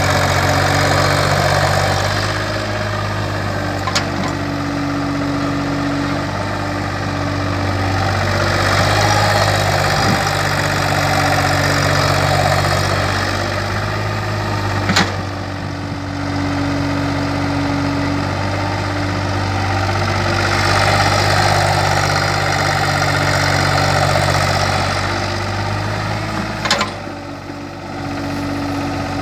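Kobelco excavator's diesel engine running as it works, its note rising and falling every few seconds with the load, with three sharp knocks spread through it.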